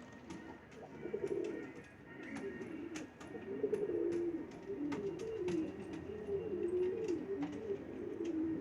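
Pigeons cooing, several low calls overlapping almost without pause, with scattered sharp clicks among them.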